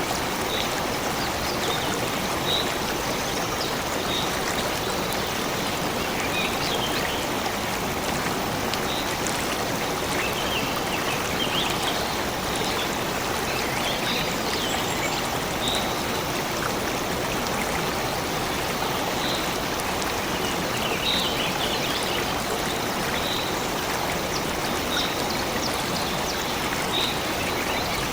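A stream of running water rushing steadily, with short high bird chirps repeating every second or two over it.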